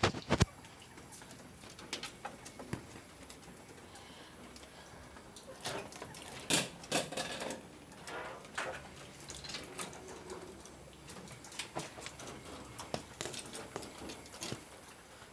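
Chickens moving about: irregular light taps and scuffling, with a cluster of louder short bursts about six to nine seconds in.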